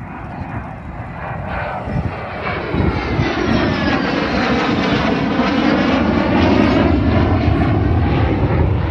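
Saab 37 Viggen jet fighter's single Volvo RM8 turbofan approaching and passing. The roar grows louder over the first few seconds and then holds loud, with a faint whine falling in pitch partway through.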